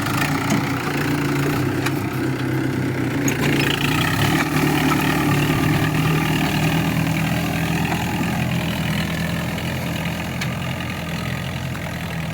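Mahindra Sarpanch tractor's diesel engine running steadily, a little softer near the end.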